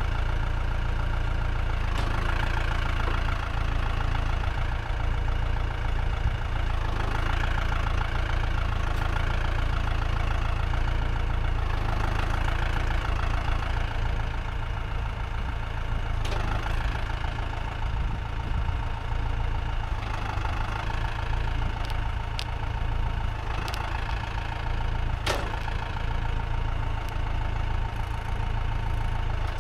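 Tractor engine running steadily, with a few sharp clanks and knocks here and there.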